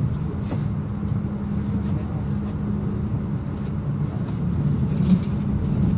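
Passenger train running at speed, heard from inside the carriage: a steady low rumble with a constant hum and a few faint clicks.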